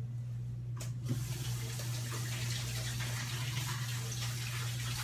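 Kitchen tap turned on about a second in and running water steadily, over a steady low hum.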